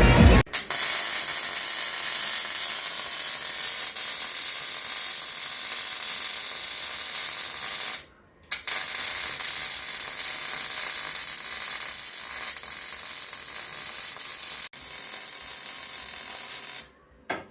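A steady mechanical hiss, strongest in the high range, which cuts off briefly about eight seconds in and stops near the end.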